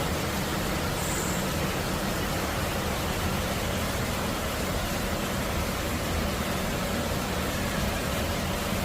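Steady rain falling in a city, an even hiss throughout, with a low rumble of road traffic underneath.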